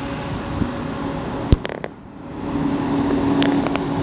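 Diesel train engine hum at a railway station, growing stronger about halfway through and holding a steady low drone. A single sharp knock about one and a half seconds in.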